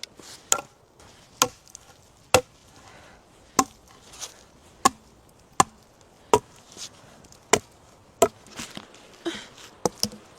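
Wood being chopped with an axe or hatchet: a series of sharp, separate chops at roughly one a second, about a dozen in all.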